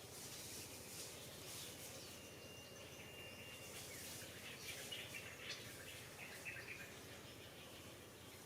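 Faint outdoor ambience with scattered high chirps and a short, steady high whistle, busiest a little past the middle.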